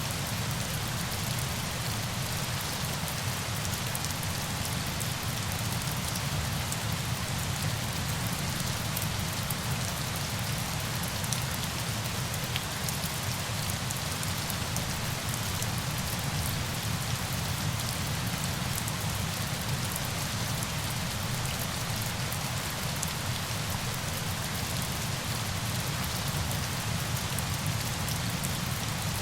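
Steady, even falling-water noise, rain or cascading water, with faint scattered drop ticks over a low rumble and no change in level.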